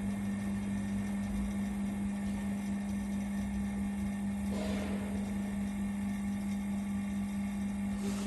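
Vacuum pump running with a steady, constant hum as it evacuates the mixer chamber, which is nearly at its designed vacuum degree. A brief soft noise about halfway through.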